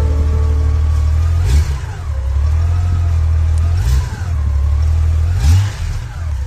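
Honda Goldwing 1500's flat-six engine idling, with three short throttle blips about a second and a half, four and five and a half seconds in.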